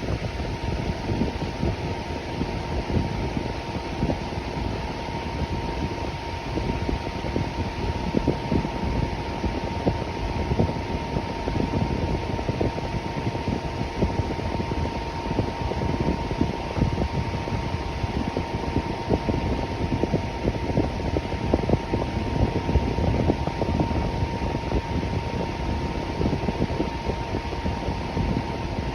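Electric fan running steadily, a dense whooshing rush of air with a faint steady hum near 1 kHz.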